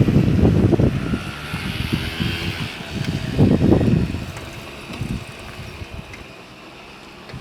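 Wind buffeting the microphone over the low rumble of a vehicle, loudest at the start and again about three and a half seconds in, then fading to a quieter hiss.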